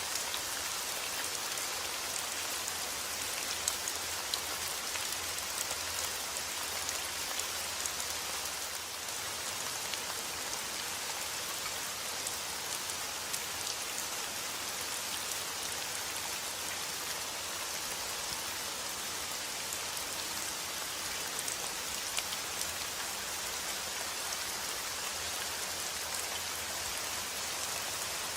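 Steady rain falling, an even hiss with the patter of individual drops landing on a surface.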